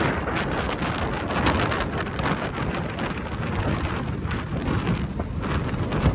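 Tropical-storm wind gusting hard with driving rain: a continuous rush of noise with a heavy low rumble of wind on the microphone, broken by many short spatters.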